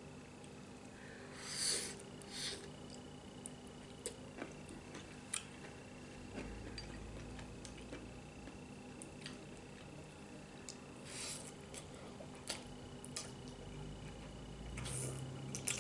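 Quiet eating sounds: light clicks of utensils against dishes, with a few short slurps from eating soup and noodles, about two seconds in, around eleven seconds, and near the end.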